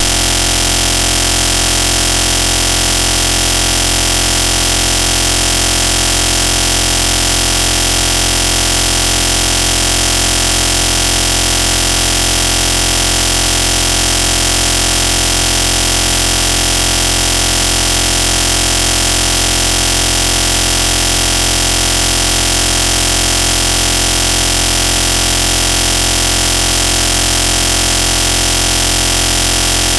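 Loud, steady noise like a hiss that stays exactly the same throughout, with no rise and fall of a passing aircraft.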